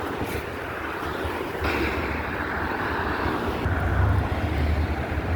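Strong wind buffeting the microphone: a continuous rushing noise over a fluctuating low rumble, gusting stronger about halfway through.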